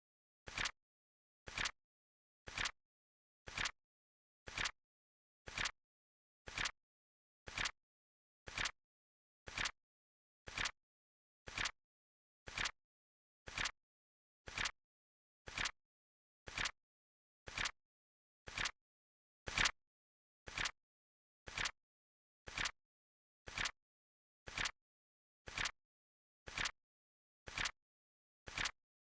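Flip clock timer sound effect: short, crisp flip clicks at a steady one per second as the countdown runs, one slightly louder about two-thirds of the way through.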